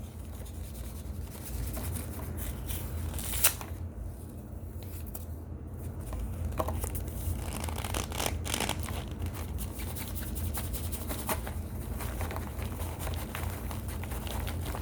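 Baked cornstarch chunks crunching and crumbling in irregular crackly snaps, with one sharper crack about three and a half seconds in, over a steady low hum.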